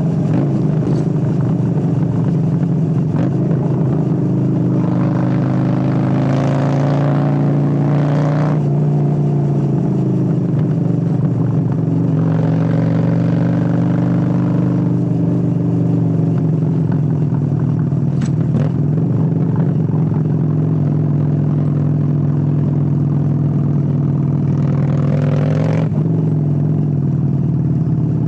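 Honda Steed 600's liquid-cooled V-twin engine running under way, with three stretches where it is revved up, the pitch rising before dropping back. A few sharp clicks come through the engine note.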